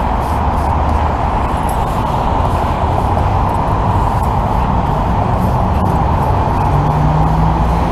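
Steady roar of passing freeway traffic over the low hum of an idling vehicle engine, with a low engine note coming up near the end.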